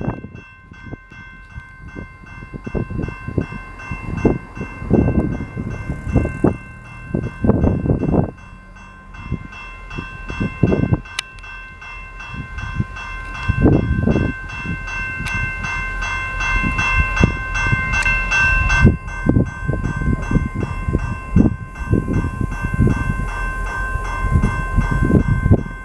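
Autorack freight cars rolling past, with a low rumble and irregular thumps from the wheels on the rails. Over it a level-crossing bell rings steadily at an even rate.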